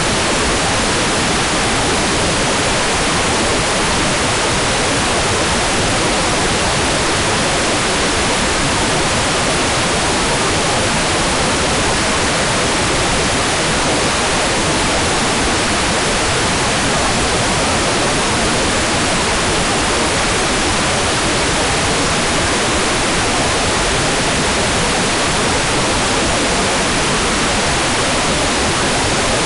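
Hair dryer running steadily, used as white noise: an even, unchanging rush with no audible pitch or change.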